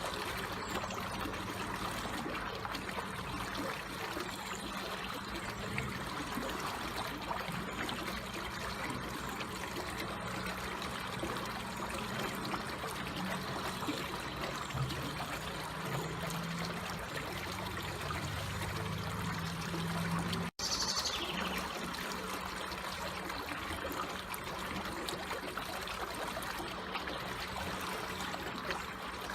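Water trickling and flowing gently and steadily, like a small stream. The sound drops out for an instant about two-thirds of the way through.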